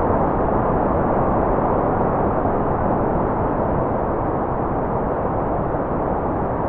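Steady, unbroken white noise at an even level, a dull rush with its highs cut off: nearly all of it lies below about 2 kHz, with nothing above about 4 kHz.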